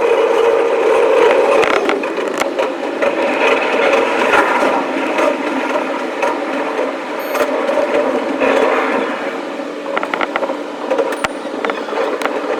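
Sound of an electric commuter train running, sped up fivefold: a continuous rattling din with many sharp clicks.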